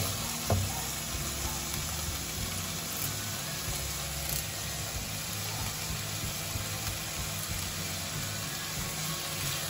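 Chicken pieces, shallots and green chillies frying in coconut oil in a nonstick pan, with a steady sizzle. A wooden spatula knocks against the pan a couple of times in the first second.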